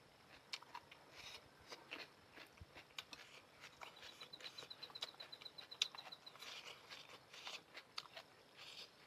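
Close-miked eating of noodles: soft chewing with irregular small wet clicks and mouth sounds. A faint, very rapid ticking runs for about two seconds starting about four seconds in.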